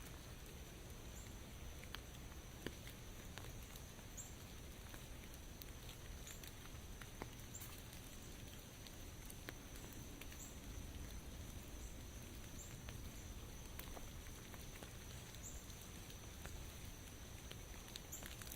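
Light rain falling on forest foliage: a soft, even patter with scattered individual drips. A faint steady high tone and short, faint high chirps every second or two sit over it.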